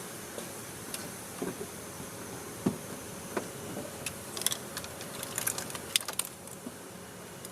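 Scattered clicks and light metallic clinks of hand tools or small metal parts being handled, with a cluster of jingling clinks about four to six seconds in, over a steady hiss.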